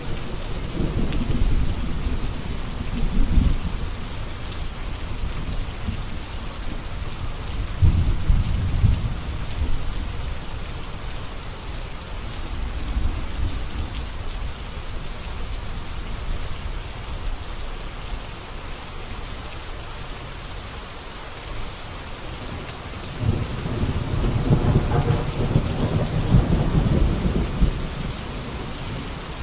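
Steady rain in a thunderstorm, with low rolls of thunder rumbling at the start, about eight seconds in, and again in a long roll near the end.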